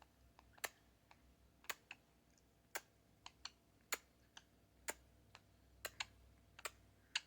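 Irregular sharp clicks or pops, about a dozen of them, spaced roughly half a second to a second apart, against near-quiet.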